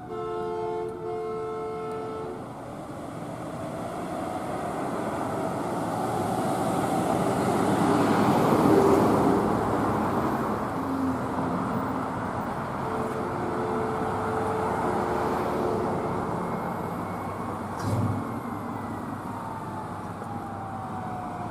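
Fire apparatus air horn blasting, then the vehicle passing close: engine and road noise swell and fade under a siren's slow wail. A second air horn blast follows, and there is a short thump near the end.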